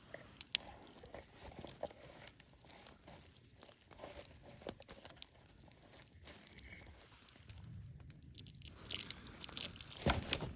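Bonfire crackling, with irregular sharp snaps and pops that come a little thicker near the end.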